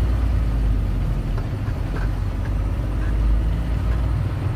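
Tractor-trailer's diesel engine running steadily at a low, even rumble.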